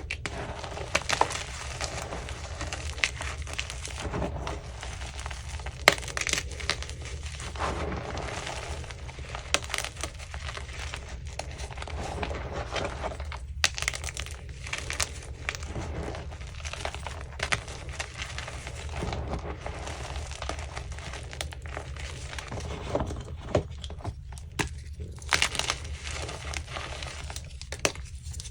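Chunks of Easy Grip gym chalk being crushed and crumbled, a dense, irregular run of dry crunches and crackles with a few sharper snaps.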